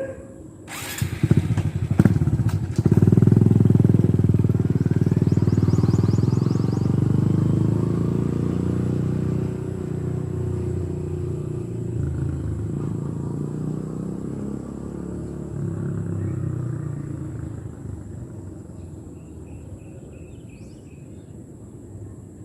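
Honda RS125 motorcycle engine accelerating hard about a second in, loudest a couple of seconds later, then running on at a steady pitch while it slowly fades away.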